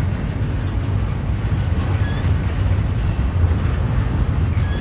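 Double-stack intermodal freight train passing, its container-laden well cars making a steady, low rumble over the rails.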